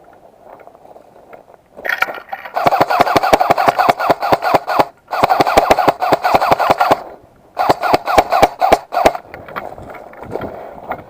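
Airsoft gun firing on full auto in three long, rapid bursts, starting about two seconds in, with brief pauses between them.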